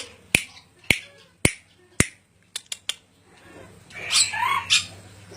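Four sharp clicks about half a second apart, then a few softer quick clicks, followed about four seconds in by a short squawking call from an ornate lorikeet (perkici dora).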